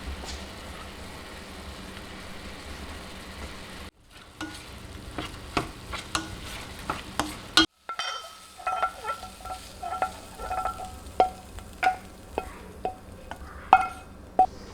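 Food sizzling steadily in a hot frying pan, then a run of sharp clinks and taps of a utensil against the pan, some of them ringing briefly.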